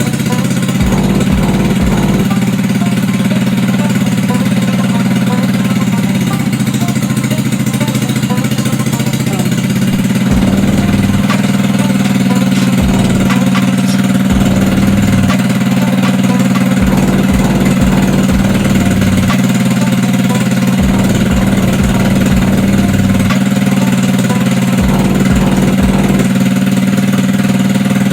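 GY6 150cc single-cylinder four-stroke scooter engine, fitted with a PWK28 slide carburetor, running on a test bench at a steady, unchanging speed.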